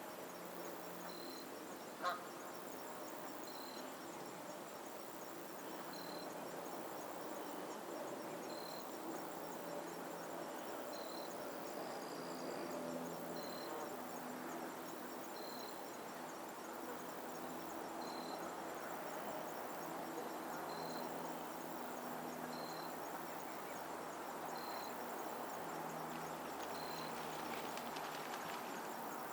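Geese honking and calling on a lake. A short high chirp repeats every two to three seconds, and there is one sharp click about two seconds in.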